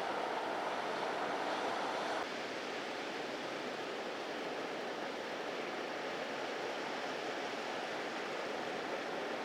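Ocean surf breaking and washing over rocks in a continuous rushing wash. About two seconds in the sound drops abruptly to a slightly quieter wash.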